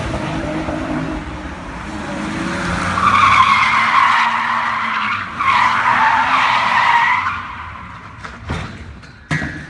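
Car tyres squealing in a long skid for several seconds over a running engine, with the squeal wavering in pitch. Two short sharp knocks come near the end.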